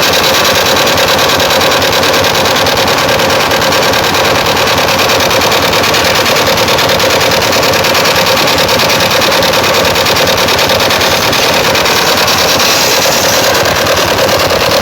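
Large outdoor sound system of stacked speaker cabinets and horns playing at a very high, unbroken level, heavily distorted.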